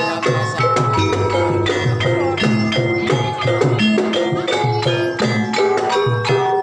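Banyumasan gamelan music accompanying a jathilan horse dance: tuned mallet percussion plays a dense, steady run of struck notes over regular drum strokes.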